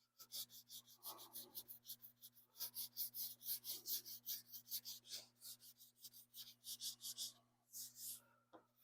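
Hand sanding with 400-grit sandpaper on painted car body: quick, even back-and-forth rubbing strokes, several a second, with a brief pause near the end. The strokes are working a run (sag) out of white paint to level it.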